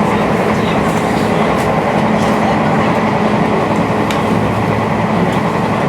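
Meitetsu 7700 series electric train running, heard from inside the passenger car: a steady rumble of wheels on rail with a faint low hum and a few light scattered clicks.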